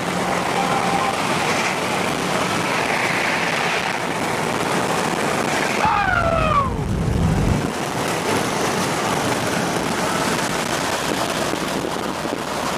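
Steady road and wind noise of a vehicle on the move, with a short falling pitched sound about six seconds in and a low rumble for about a second and a half just after it.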